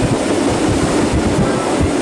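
Moving train running on the rails: a steady, loud rumble and rattle of the wheels and carriage.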